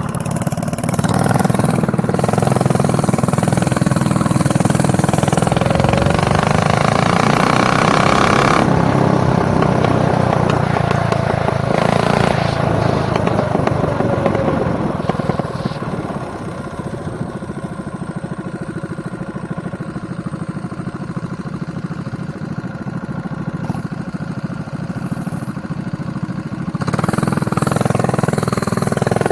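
Mini bike engine running as it is ridden, its pitch rising and falling as it speeds up and slows. It eases off about halfway through and picks up again near the end.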